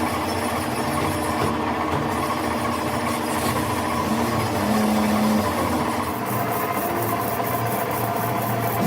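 A motor running steadily, with a steady drone, and a run of light ticks about four a second starting about six seconds in.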